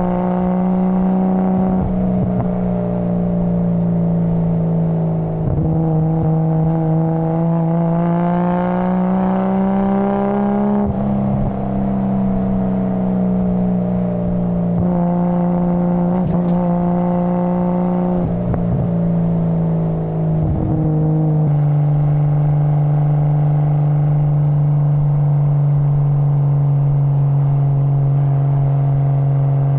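Nissan Skyline GT-R R33's RB26 twin-turbo straight-six running, its exhaust note rising gently and dropping back several times, then holding a steady pitch for the last third.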